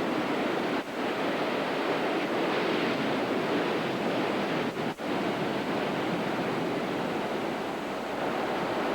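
Hurricane wind and heavy surf: a steady rush of noise, with wind buffeting the camcorder microphone. It dips briefly twice, about a second in and about five seconds in.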